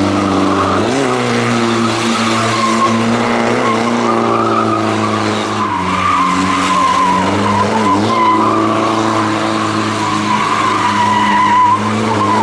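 A car doing a long burnout: the engine is held at high, fairly steady revs with brief dips, while the spinning tyres squeal continuously with a wavering pitch.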